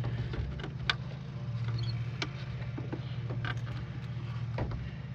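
Scattered light clicks and taps of plastic headlight parts being handled and fitted, over a steady low hum.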